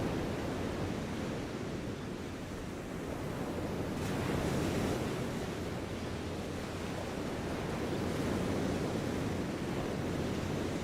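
Steady rushing outdoor ambient noise, deep and even, swelling a little about four seconds in and again near eight seconds.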